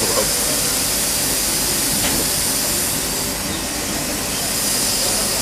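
Steady hissing machinery noise of a workshop floor, even in level throughout, with a few faint brief sounds near the start.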